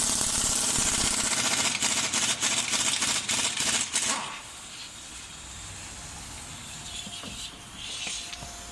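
Impact wrench hammering as it tightens the bolts of a newly fitted front wheel bearing hub, running for about four seconds and ending in a few short bursts.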